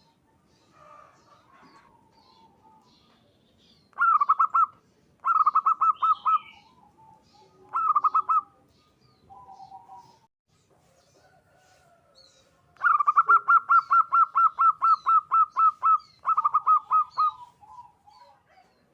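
Zebra dove singing: short bursts of rapid, evenly repeated cooing notes, then a longer run of them about 13 seconds in. Fainter chirps of other birds sound between the bursts.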